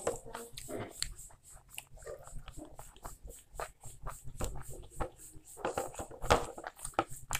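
Close-miked eating sounds of a man eating rice and beef curry by hand: wet chewing and lip smacks in quick, irregular clicks, with one louder smack about six seconds in.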